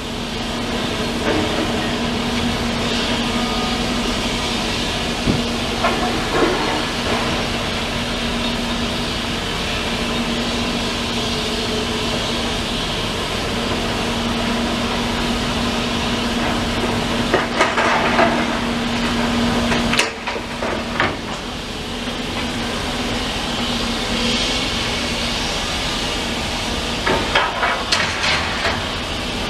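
Heavy demolition machinery running steadily with a low hum. Bursts of clanking and scraping of metal and rubble come about six seconds in, again between about 17 and 21 seconds, and near the end. The hum cuts off suddenly around 20 seconds in.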